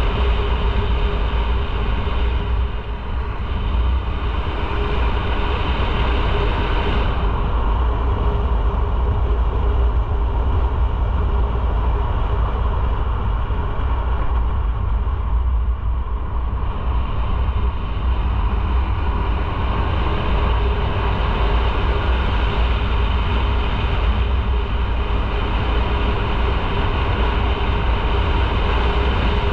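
Motorcycle riding at steady speed: an even engine drone over a heavy, steady low rumble.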